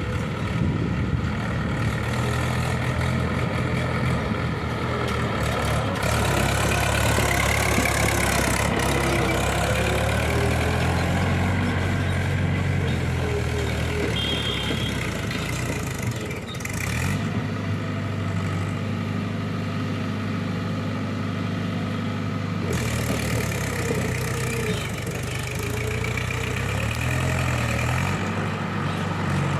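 Heavy diesel engine running continuously, its note rising and falling as the revs change several times.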